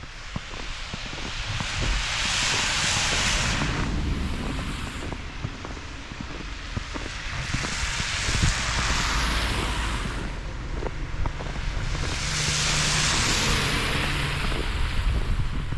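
Three vehicles pass one after another on a snowy road, each a swelling and fading hiss of tyres on wet snow, over a low engine rumble.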